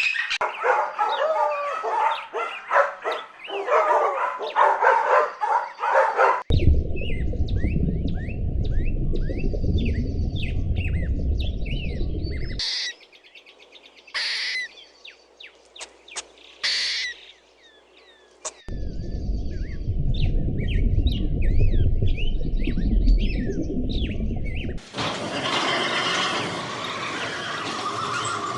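Birds chirping and calling, heard as several spliced clips that change abruptly. Two of the clips carry a low steady rumble under the chirps, and a few sharp shrill calls come around the middle.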